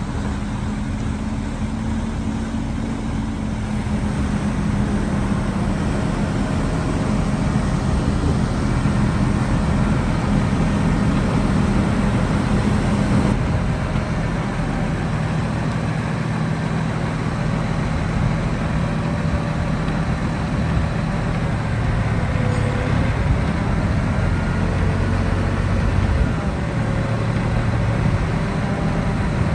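Heavy diesel construction machine engine running steadily under working load, its note stepping down to a lower pitch about halfway through.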